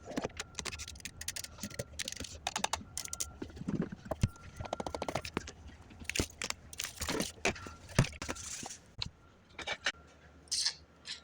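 Items being handled and moved around inside a fridge: a string of knocks, clatters and rustles, with a quick run of clicks near the middle.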